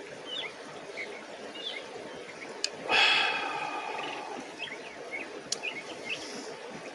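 Small birds chirping repeatedly over a steady rush of river water. About three seconds in, a sharp click is followed by a loud hiss that fades away over a second or so.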